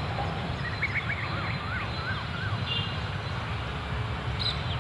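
A bird chirping in quick rising-and-falling notes for about two seconds, over a steady low rumble of outdoor background noise.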